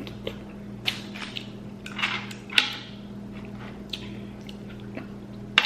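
Close-up eating sounds of a seafood boil: scattered wet mouth clicks and chewing, with a sharp click near the end, over a faint steady low hum.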